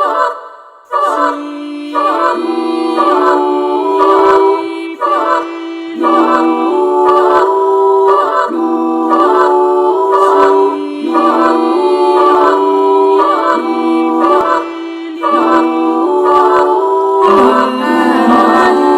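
A cappella vocal ensemble singing in harmony, short repeated notes in a steady pulse of about two a second, with a lower voice part coming in near the end.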